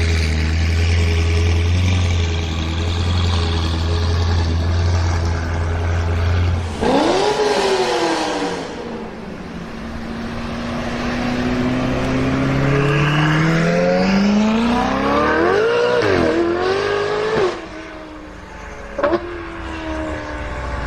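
Straight-piped Ferrari engine idling with a deep, steady drone, then a quick rev about seven seconds in. It then accelerates, its pitch climbing, dipping briefly and climbing again before the sound drops away suddenly, with a short sharp sound after it.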